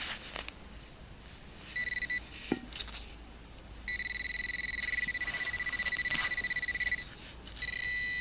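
Metal detector sounding a steady high beep on a target it has just signalled: a short beep, then a long one of about three seconds, then another near the end. Faint knocks and scrapes of digging in soil come between the beeps.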